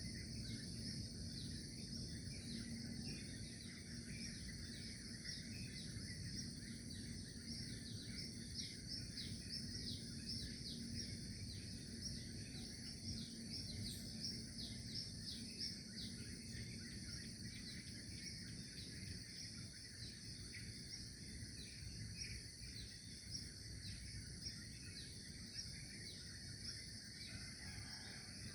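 Outdoor morning ambience: many short bird chirps over a steady, high-pitched insect drone, with a low, even background rumble.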